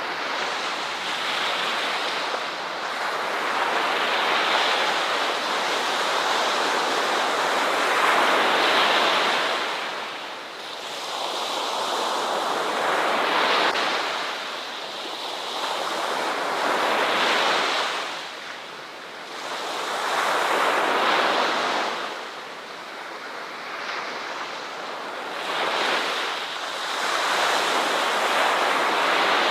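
Ocean waves breaking on a beach, the surf swelling and washing back again every few seconds.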